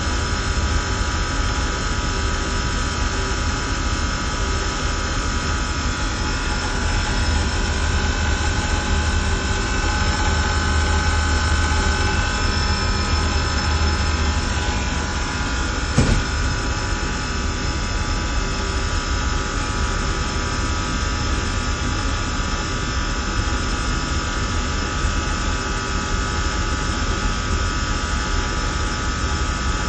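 Systemair chiller–fan coil HVAC equipment running steadily: a constant mechanical hum and rush with several steady whining tones. A single sharp click about halfway through.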